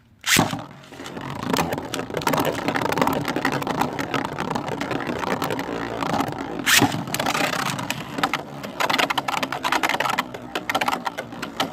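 Beyblades released from a launcher with a sharp snap, then the spinning tops scraping and clattering around a plastic stadium and against each other, with a hard hit about seven seconds in and a run of rapid knocks near the end.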